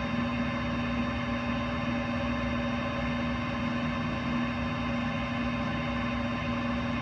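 Metal lathe running with a steady motor hum, no cut being taken.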